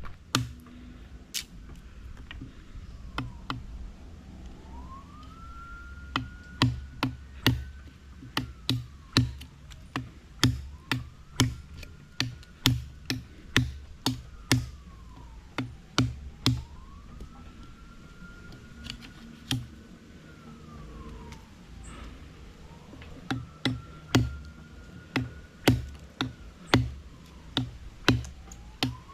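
An emergency-vehicle siren wailing faintly, rising, holding and falling in pitch about every four to five seconds. Over it comes a run of sharp, irregular knocks with low thuds.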